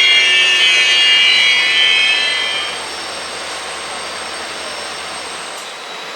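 Train wheels squealing in several high, steady tones over the rolling noise of an ICF passenger coach. The squeal fades out a little under three seconds in, leaving a steady, quieter rumble of the moving train.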